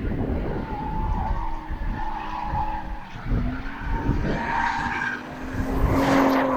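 Drift car sliding with its engine revving and its tyres squealing. The sound grows loudest about six seconds in, then falls away quickly.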